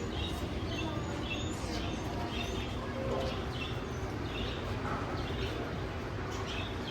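Small birds chirping in short, repeated calls, over a steady low rumble.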